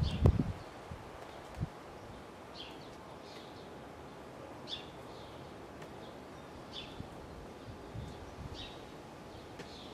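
Short high chirps of a small bird, repeating every second or two over a steady outdoor background hiss. A few low thumps right at the start, the loudest sound, and another one about a second and a half in.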